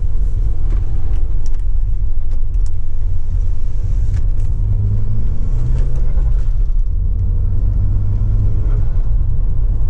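Audi TT Mk1 roadster driving: steady engine and road rumble with no groaning or rubbing heard, which the owner takes as a sign that giving the exhaust downpipes more clearance from the subframe has cured the noise.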